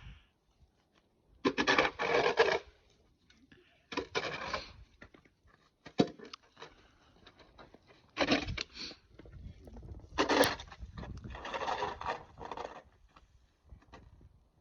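Snow shovel scraping and pushing snow in several separate strokes of up to about a second and a half each, with a sharp click about six seconds in.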